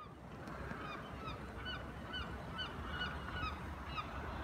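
A bird calling over and over in short, curving notes, about two calls a second, over a steady low rumble.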